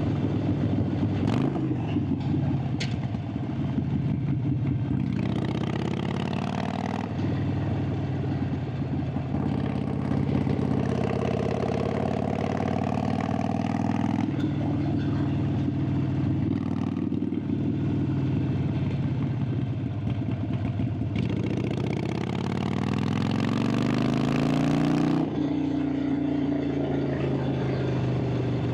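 Harley-Davidson Sportster 883's air-cooled V-twin exhaust heard on board while riding: the engine pulls up through the revs several times, each climb cut off by a sudden drop at a gear change or as the throttle closes. A couple of sharp clicks come in the first few seconds.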